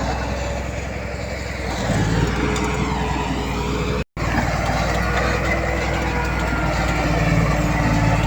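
Heavy diesel earthmoving machinery running steadily, a bulldozer and dump trucks at work. The engine note shifts about two seconds in, and the sound drops out completely for a moment just after four seconds.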